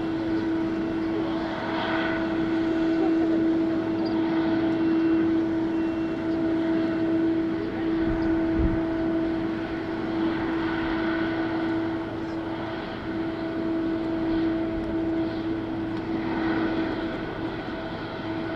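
Jet airliner engines running at low power, giving a steady hum with a constant droning tone and no rise or fall in pitch.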